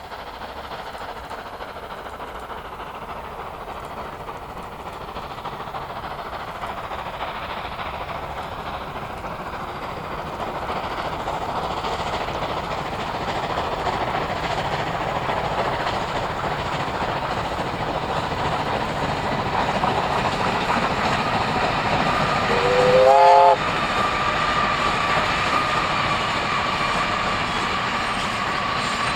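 Steam train running and drawing steadily closer, growing louder. About three quarters of the way through comes one short steam-whistle blast that rises slightly in pitch, and a steady high tone carries on after it.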